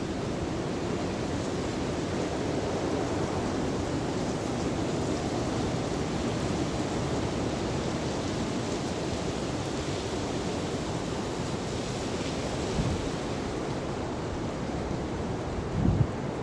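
Storm wind blowing hard and steadily, a continuous rushing noise, with two brief low thumps about thirteen and sixteen seconds in.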